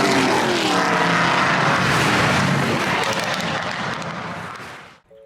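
V8 engine of a 700 hp 1969 Camaro race car running hard, its pitch rising and falling, fading away about four to five seconds in.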